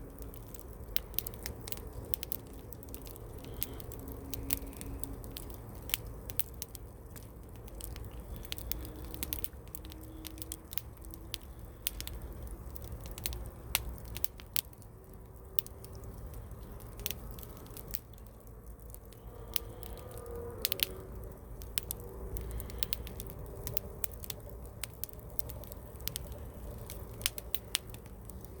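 Wood campfire crackling hard, with frequent sharp pops and snaps scattered over a steady low burning noise.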